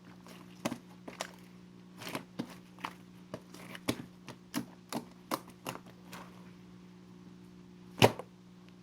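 Toffee slime being played with by hand: irregular clicks and pops, about one or two a second, with one loud pop near the end, over a faint steady hum.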